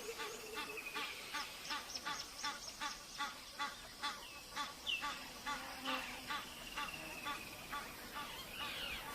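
A bird calling in a steady run of short repeated notes, about three a second, with a fainter thin whistle sliding downward behind it.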